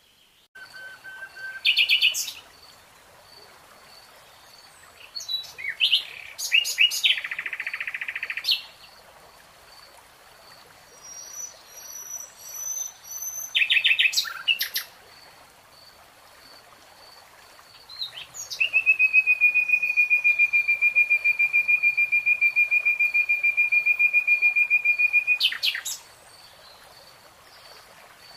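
Birds calling in a wooded setting: several short chirping phrases, then one long, even trill lasting several seconds in the second half, over a faint high call repeating at a steady pace.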